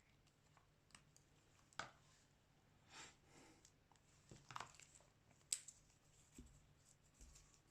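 Small hand-work sounds of a phone repair: a few faint clicks and taps, with short scraping or rustling sounds, the sharpest click about five and a half seconds in.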